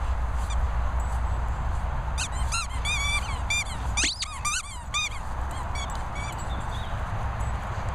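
Labrador giving short, high-pitched squeaky whines, a quick run of them about two to five seconds in, one rising sharply near four seconds, over a low steady rumble.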